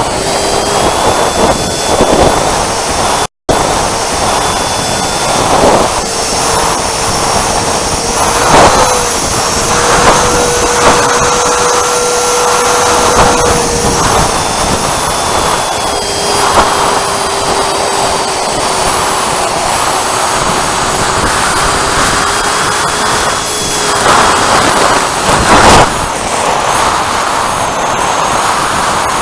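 80 mm electric ducted fan of a Freewing Avanti S RC jet whining in flight, its pitch rising and falling with throttle, over a heavy rushing noise.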